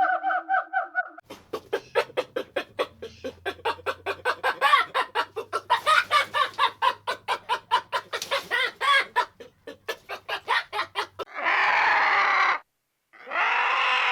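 Chickens clucking in a dense run of quick, short notes for about ten seconds, followed near the end by two long, harsh, rasping calls.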